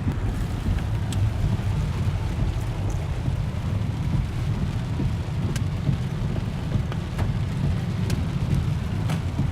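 Rain falling on a moving car, heard over the steady low rumble of the car's engine and tyres, with a few scattered sharp ticks.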